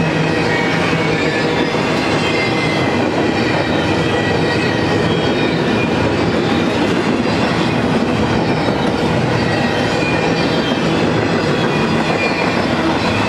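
BNSF double-stack intermodal freight train's loaded well cars rolling past close by: a steady, loud rumble and rattle of steel wheels on rail, with thin, wavering wheel squeals above it.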